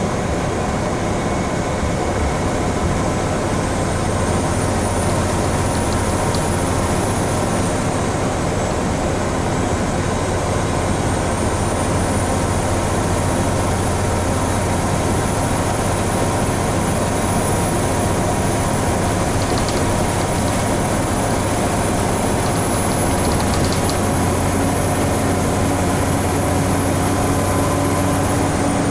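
Scania N94UB Omnicity single-deck bus heard from inside, its engine running steadily under way with road noise. A faint high-pitched whine rises twice and drops away near the end.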